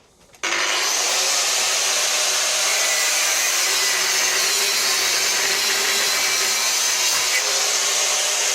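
Angle grinder switched on about half a second in, spinning up and then running steadily as it cuts into 16 mm square steel bar.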